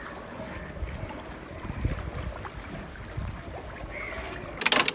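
Wind rumbling on the microphone in the open over floodwater, a low steady buffeting. A loud voice cuts in just before the end.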